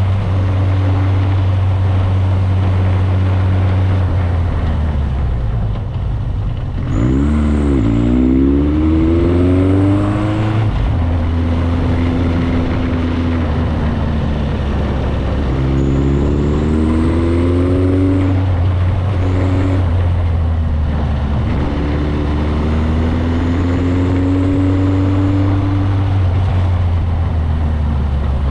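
Motorcycle engine running under way, picking up speed three times with its pitch rising each time, about a quarter, half and three-quarters of the way through, over a steady rush of wind and road noise.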